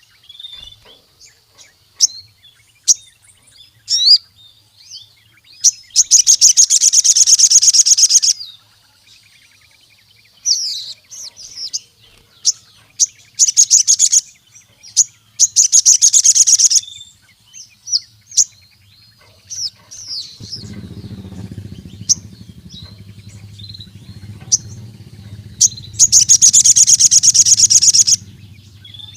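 Crimson sunbird (sogon) singing hard: short sharp high chirps broken by loud, fast, rattling trills a couple of seconds long, four of them. This is a male's territorial call used to provoke rivals. A low steady hum comes in about two-thirds of the way through.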